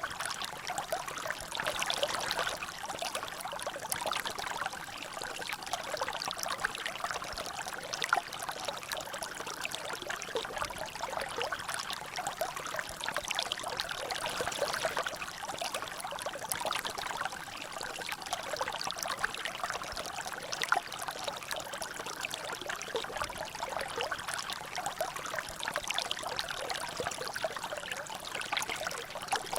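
Water trickling and dripping in a natural drainage: a steady stream of small splashes and drops with no pauses.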